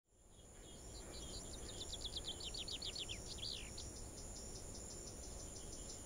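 Marsh ambience fading in: a bird sings a fast run of descending high notes for a couple of seconds, over steady, regular insect chirping and a low rumble.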